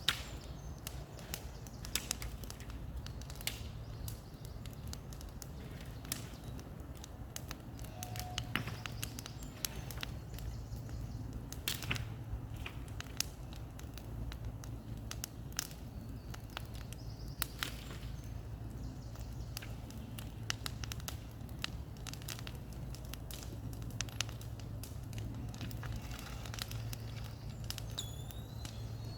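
Bonfire crackling, with irregular sharp pops and snaps over a steady low rumble.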